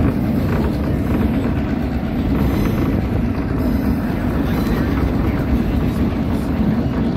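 Steady running noise of a moving passenger train, heard from its open-air platform car: wheels rolling on the rails, with wind rushing past.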